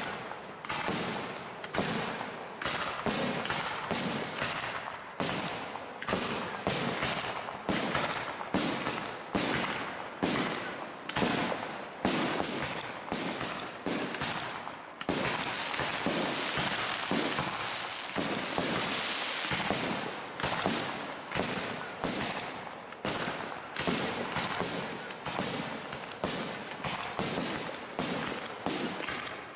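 Professional aerial fireworks display with large shells: a rapid string of sharp bangs, about two a second, each trailing off briefly. A dense hissing crackle fills the gaps for a few seconds around the middle.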